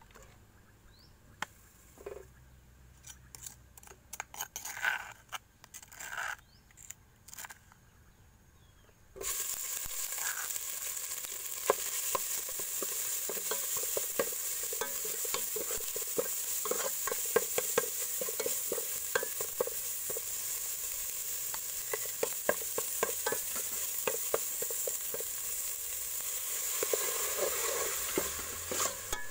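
A few faint knocks, then about nine seconds in a loud sizzle starts as spice paste hits the hot oil in an aluminium pot. The sizzle goes on steadily under the quick clicks and scrapes of a metal spoon stirring the paste against the pot.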